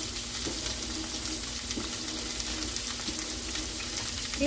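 Beef ribs sizzling steadily as they sear in olive and achiote oil in a pan, with a faint steady hum beneath.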